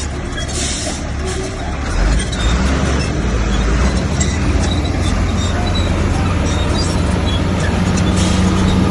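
Diesel engine of heavy earth-moving machinery running steadily, growing a little louder about two seconds in, with scattered small metallic clinks.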